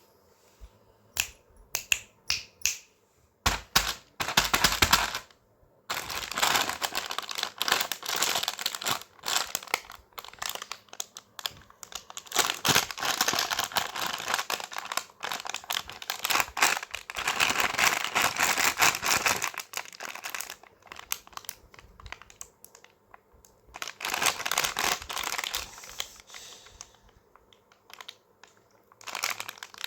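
A packet of Crax Fritts snacks being handled, crinkling and crackling in long bursts, with a few sharp clicks in the first few seconds.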